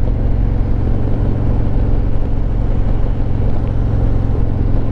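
2023 Harley-Davidson Road Glide Limited's Milwaukee-Eight 114 V-twin running steadily while the bike cruises along.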